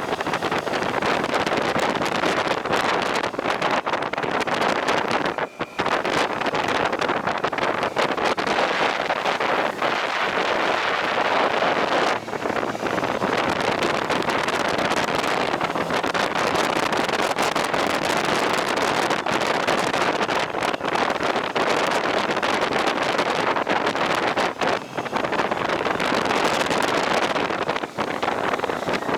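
Steady rush of wind buffeting the microphone on a moving motorcycle, with road and engine noise underneath and a few brief dips.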